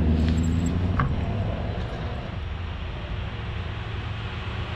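A car's engine rumbling low as it drives away; the rumble fades after about two seconds, leaving a steady, quieter background of traffic.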